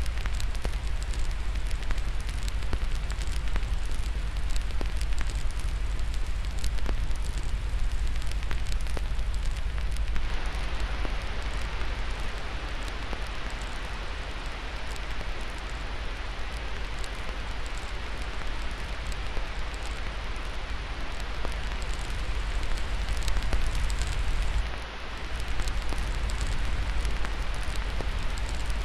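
Crackling fire with many sharp pops over a steady hiss of white noise and a deep low rumble. About ten seconds in, the hiss grows stronger, and there is a brief dip in level a few seconds before the end.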